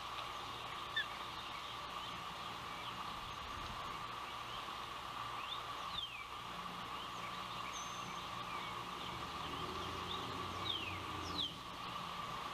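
Ospreys calling at the nest: scattered short, high whistled chirps that slide downward in pitch, a few louder ones around the middle and near the end, over steady wind noise and a constant hum.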